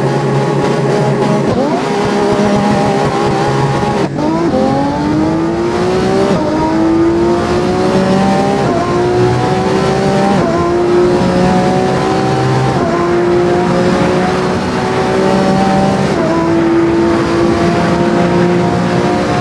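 Lamborghini Revuelto's 6.5-litre V12 pulling hard through the gears. After a sudden break about four seconds in, its pitch climbs and then drops in a series of upshifts, about five of them.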